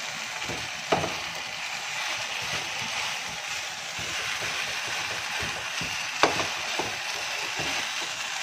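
Shredded chicken filling in a creamy sauce sizzling in a nonstick frying pan while a silicone spatula stirs and scrapes it. Two sharp knocks stand out, about a second in and about six seconds in.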